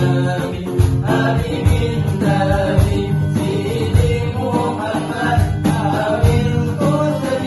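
A voice singing a melody over backing music with a pulsing bass, by an amateur singer practising, off-key by the singer's own account.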